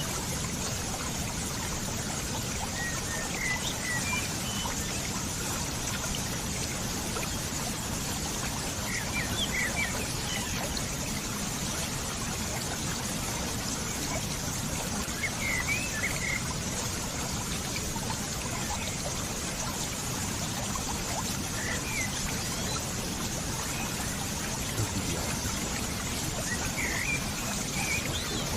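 Water trickling and pouring steadily, like a small stream. Brief high chirps come through it about every six seconds.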